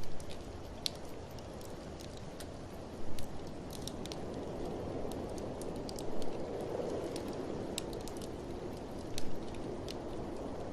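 A wood fire crackles in a fireplace, with scattered sharp snaps and a louder pop about every three seconds. Under it, a steady blizzard wind blows and swells in the middle.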